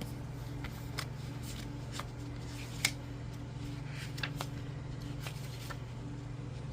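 Oracle cards and paper being handled: scattered light taps, slides and rustles, with one sharper click about three seconds in, over a steady low hum.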